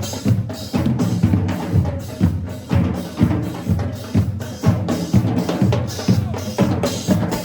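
Marching band drumline playing a cadence: bass drums and snare drums keep a steady beat of about two strong hits a second, with snare and rim strokes between.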